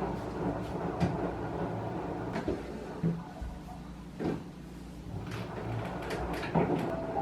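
A few scattered light knocks and clicks of objects being handled, over a low steady rumble.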